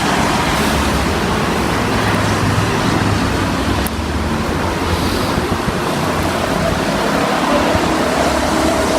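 Rain falling steadily, a constant even hiss with a low rumble underneath.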